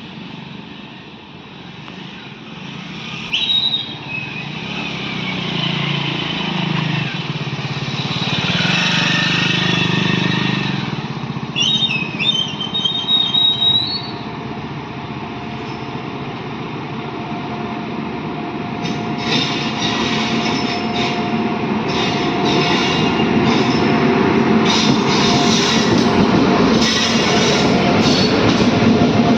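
Train running on the track, growing louder, with brief high squeals and, in the second half, repeated clatter of wheels over the rails.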